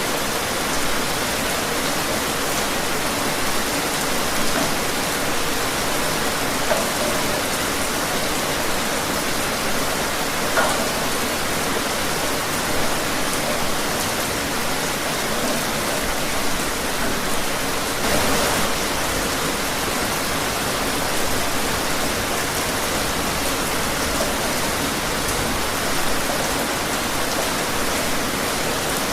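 Steady rain falling, an even wash of noise with scattered individual drops.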